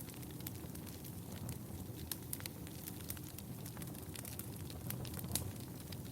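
Wood fire burning in a fireplace: irregular crackling, with many small pops over a low, steady rumble of flames. One louder pop comes about five seconds in.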